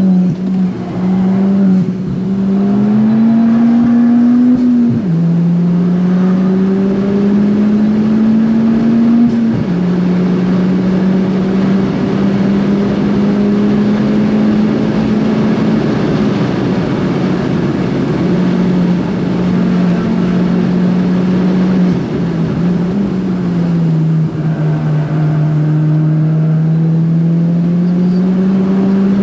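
Interior sound of a big-turbo Ford Fiesta ST's engine under hard acceleration on track. It climbs through the revs with sharp upshifts about five and nine seconds in, holds steady through the middle, eases off briefly near the end, then pulls again. Heavy road and wind noise runs underneath.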